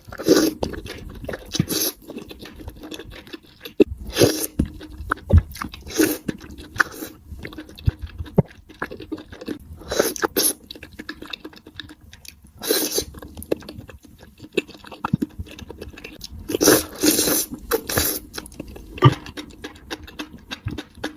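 A person biting and chewing crunchy food close to the microphone: crisp crunches come in irregular bursts, with quieter chewing between them.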